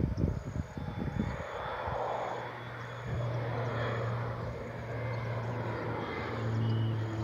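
Air Tractor 502B crop-spraying plane flying past, its turboprop engine and propeller drone steady and growing louder near the end as it approaches. A few low knocks in the first second.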